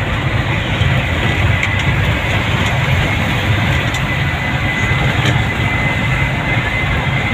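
Steady rumble of a vehicle travelling along a road, with engine and road noise and a thin, steady high tone above it.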